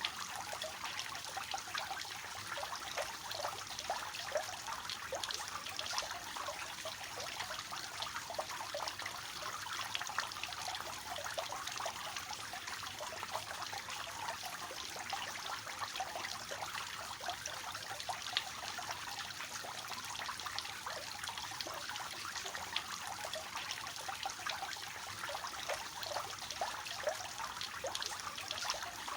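Water falling steadily from a three-tiered cascade fountain, a continuous trickling splash into the basin.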